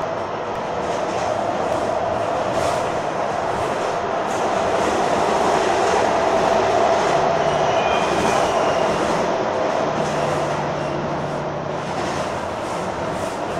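Metrorail commuter train running, a steady rattling rumble that swells a little midway, with a faint brief squeal about eight seconds in.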